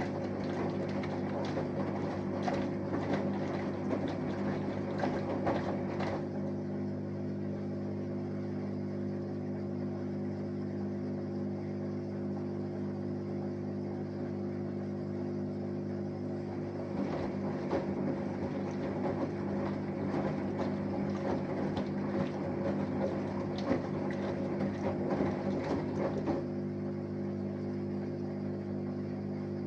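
Samsung Eco Bubble front-loading washing machine partway through a wash cycle. A steady machine hum with several pitched tones runs throughout. Over it, the drum tumbles the wet laundry with sloshing and clatter in two spells: at the start, and again from about halfway to near the end, with a quieter pause between.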